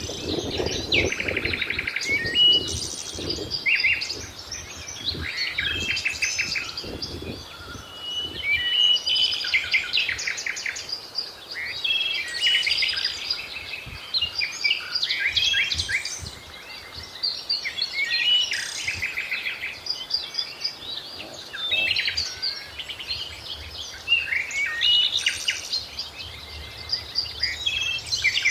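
Several songbirds singing at once, with overlapping chirps, rapid trills and short whistled notes coming in waves.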